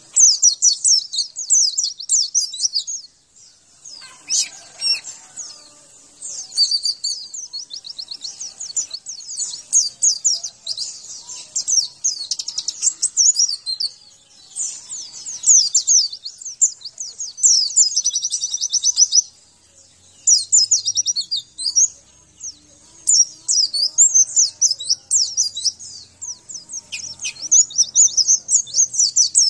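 White-eye (pleci) singing: a rapid, high twittering song delivered in long runs of a few seconds each with brief pauses between them.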